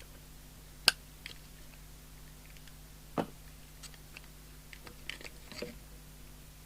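Sharp plastic clicks and handling noise from a replacement microphone element being pushed and turned into a CB hand microphone's plastic case, with one loud click about a second in, another around three seconds, and a few small ones near the end.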